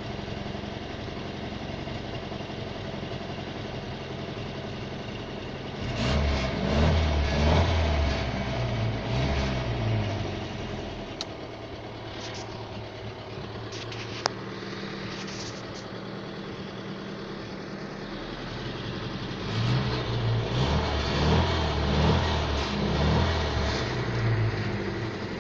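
Volga car engine idling steadily, then revved in two spells of uneven throttle blips, about six seconds in and again near the end.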